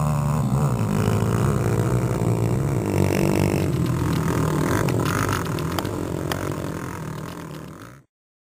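Small 125–150 cc dirt bike engine running, its pitch rising and falling with the revs; the sound fades away and cuts to silence about eight seconds in.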